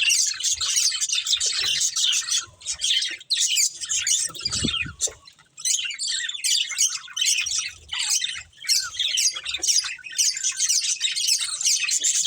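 Budgerigars chattering, with a rapid, continuous stream of high chirps and warbles that pauses briefly about halfway through.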